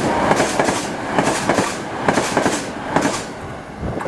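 A train running past, its wheels clattering over rail joints in clusters of clicks; the clatter dies down near the end.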